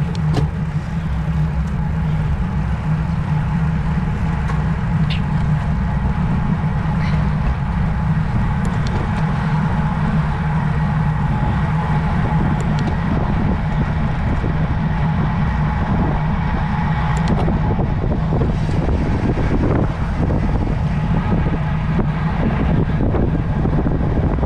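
Steady wind rumbling over the microphone of a camera carried on a moving road bike, with a few faint ticks.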